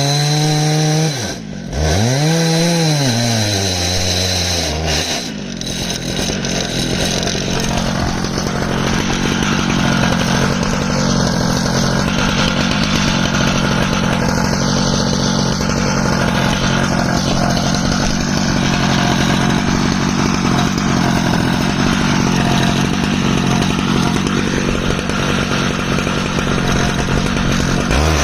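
Stihl MS 881 two-stroke chainsaw on an Alaskan chainsaw mill, revving up and falling back twice, then running steadily at full throttle through the rest, ripping lengthwise through an ash log.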